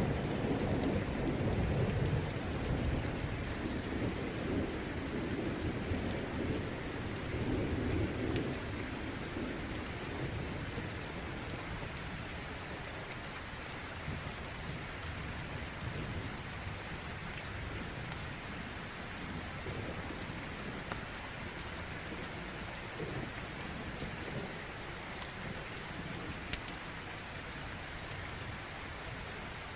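Steady heavy rain with a low rolling thunder rumble that fades out over the first eight or nine seconds, with scattered sharp crackles.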